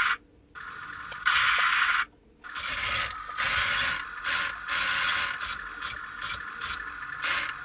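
Small electric gear motors of a mini radio-control toy tank running. They start and stop twice in the first couple of seconds, then run on with a busy, rattly gear noise. The toy's radio control works, but one of its tracks is not driving correctly.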